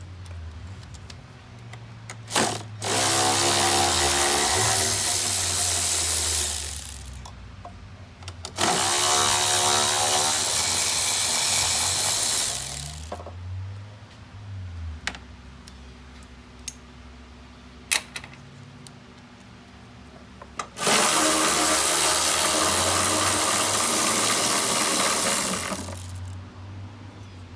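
A power tool run three times, each run lasting about four seconds and rising in pitch as it spins up, with a few sharp clicks in the pauses between runs.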